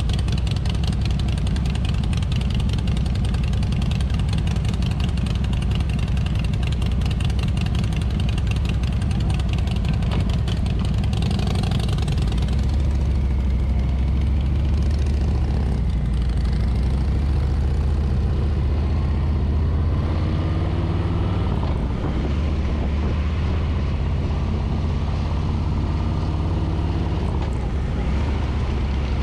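2024 Harley-Davidson Street Bob's Milwaukee-Eight 114 V-twin running steadily under way, heard from a handlebar-mounted camera with wind rush. Its note changes about twelve seconds in.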